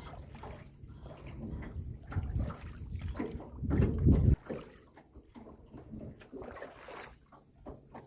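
Small boat on the water: low rumbling wind or handling noise on the microphone that cuts off suddenly about four seconds in, then quieter water and knocks from the boat.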